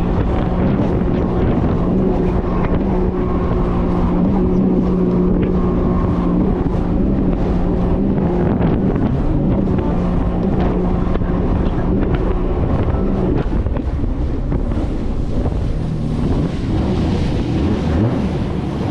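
1800cc jet ski engine running hard at speed, a steady drone under wind buffeting the microphone and rushing water. The engine note eases off about two-thirds of the way through.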